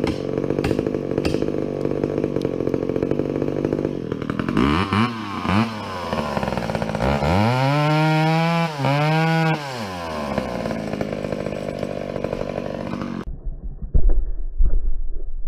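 Chainsaw blipped twice, then run up and held at high revs for a couple of seconds before dropping back. Near the end the sound cuts to a few heavy thumps.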